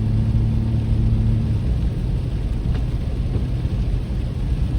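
Steady low road rumble of a car driving, heard from inside the cabin: tyre and engine noise. A steady low hum in it stops about a second and a half in.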